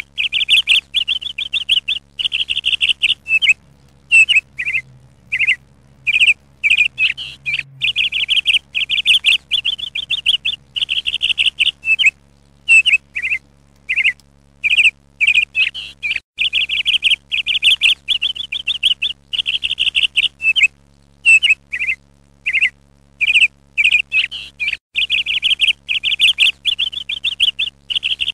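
A small bird chirping and twittering: repeated runs of quick, high trilled chirps with short pauses between them.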